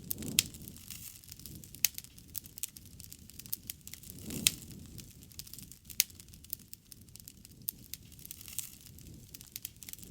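Wood fire crackling, with sharp pops and snaps at irregular intervals over a low rush of burning that swells just after the start and again about four and a half seconds in.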